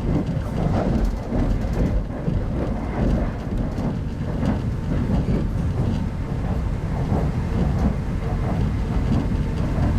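Running noise of a passenger train at speed, heard inside a Type 25T soft-seat coach: a steady low rumble of the wheels on the track with a faint steady hum.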